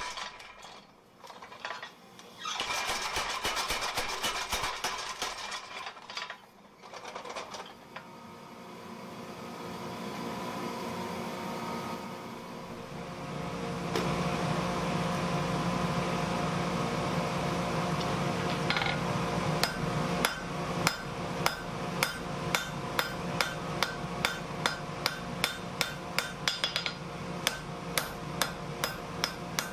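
Home-built blacksmith's power hammer at work: its motor hums steadily, and from about two-thirds of the way in the hammer strikes steel in an even rhythm of roughly one and a half blows a second.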